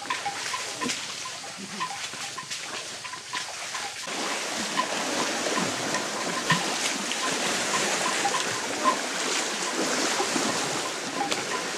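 Water splashing and sloshing around elephants wading in a river, growing fuller and louder about four seconds in.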